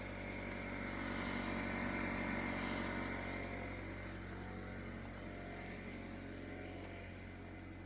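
A motor vehicle's engine running; the sound grows louder over the first two seconds or so, then slowly fades.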